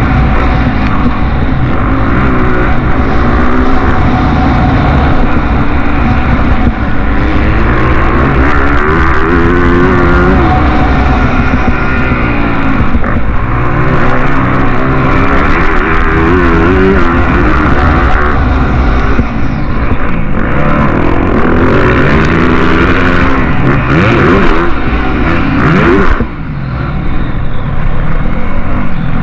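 Motocross motorcycles racing, their engines revving up and down repeatedly, with several bikes overlapping. Near the end the noise briefly drops, then picks up again.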